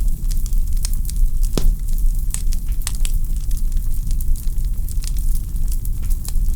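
Wood fire in a fireplace crackling: a steady low rumble of flames with frequent sharp pops and snaps from the burning logs, the loudest pop about one and a half seconds in.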